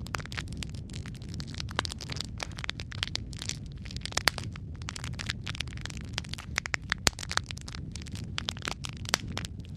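Wood fire crackling in a fireplace: a dense run of irregular snaps and pops over a steady low rumble of the flames, with a few louder pops along the way.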